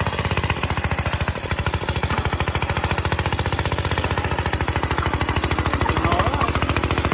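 Old Briggs & Stratton single-cylinder engine on an Eclipse Park Hound reel mower running steadily, with a rapid, even firing beat.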